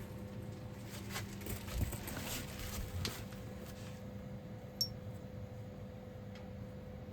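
Quiet handling sounds: soft rustling and a few small knocks over a steady low hum, with one short, high metallic ping about five seconds in.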